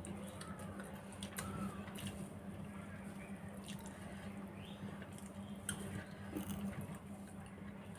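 Faint eating sounds: soft chewing and small wet clicks as rice and fried greens are eaten by hand, over a steady low hum.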